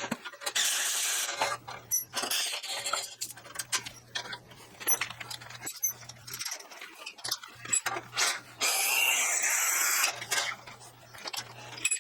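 Welding a steel gusset onto a lathe stand: irregular crackling in stop-start runs with sharp clicks, over a low hum that cuts in and out.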